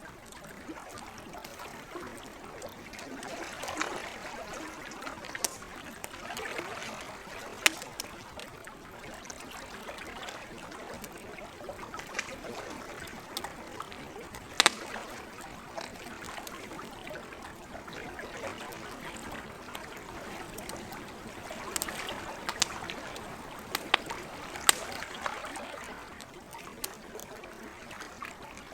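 Campfire crackling, with sharp pops over the gentle sound of lake water. The loudest pops come about 8 and 15 seconds in, and in a cluster near the end.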